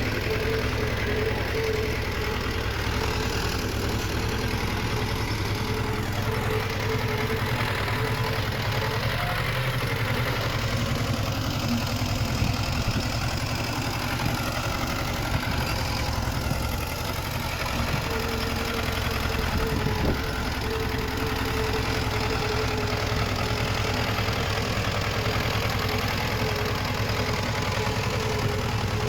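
Diesel engine of heavy earthmoving machinery running steadily, with a steady whine held above the low engine drone. A single sharp knock about two-thirds of the way through.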